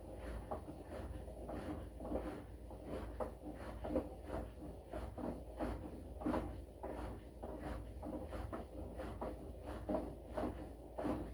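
Washing machine running a wash cycle: laundry tumbling in the drum, giving many irregular soft knocks over a steady low hum.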